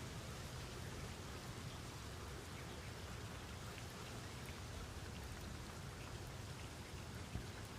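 Steady rain falling, a soft even hiss with scattered drop ticks and one slightly louder drop near the end.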